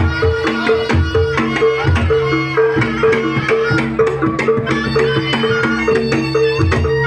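Javanese jaranan ensemble music: hand-drum strokes under a fast, repeating pattern of pitched percussion notes, with a held low tone and a reedy melody line above.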